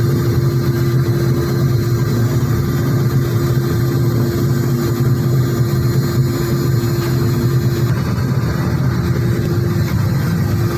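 Steady drone of running factory machinery: a constant low motor hum with a steady mid-pitched tone above it.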